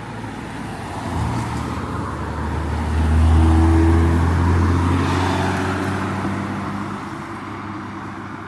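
A car driving past with a low engine rumble that swells, is loudest about three to five seconds in, then fades away.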